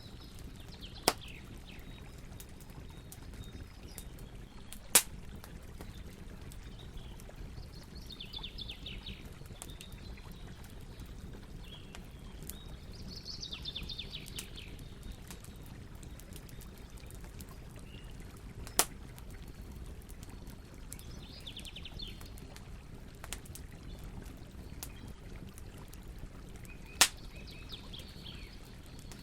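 Campfire burning with a steady hiss and fine crackling, and four loud sharp pops spread through. A songbird sings short phrases in the background four times.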